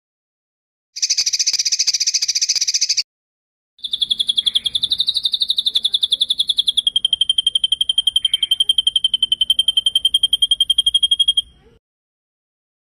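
Recorded songbird song of the kind used for training competition birds. A buzzy trill lasts about two seconds. After a short gap comes a long, rapid rolling trill on one high note, which drops slightly in pitch about three seconds in and runs for about eight seconds.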